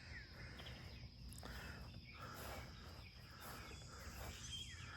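Faint outdoor night chorus: a steady high-pitched drone of insects, with a bird giving short falling whistled calls near the start and again near the end.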